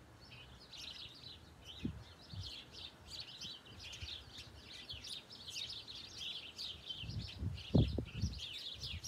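Small birds chirping steadily, many short quick calls overlapping, with a couple of low thuds near the end.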